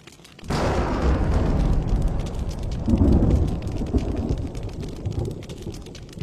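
Thunder: a clap breaks suddenly about half a second in and rolls on as a deep rumble, swelling again around three seconds and dying away toward the end. Steady rain falls underneath.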